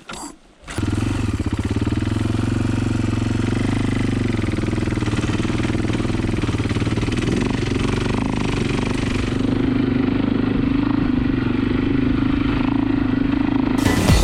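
Dirt bike engine running steadily under way. It starts abruptly under a second in, after a cut.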